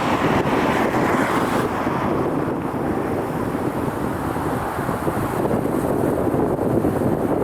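Steady roar of jet airliner engines, its higher hiss fading about two seconds in, with wind buffeting the microphone.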